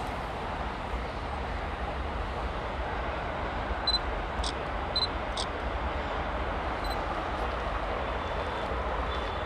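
Distant container freight train hauled by a WAG-12B electric locomotive, running as a steady, even rumble. A few short high-pitched chirps come near the middle.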